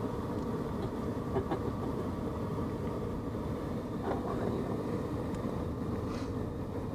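Steady low rumble of a car running slowly, heard from inside the cabin, with a few faint ticks.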